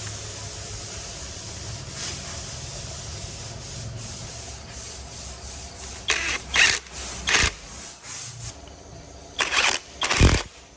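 A steady low machine hum with a high hiss, then about seven loud, short, sudden bursts or knocks in the second half, the loudest near the end.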